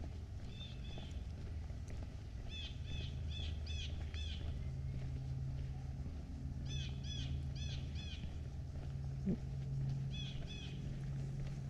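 A songbird calling in short runs of three to five quick, repeated chirps, several times over, above a steady low background hum.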